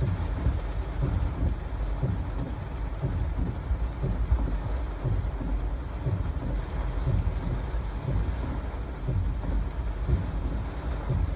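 Heavy thunderstorm rain falling in a steady hiss over a deep, uneven rumble.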